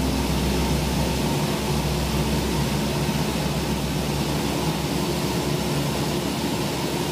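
Cessna 172 cabin noise in flight: the steady drone of the piston engine and propeller with rushing air.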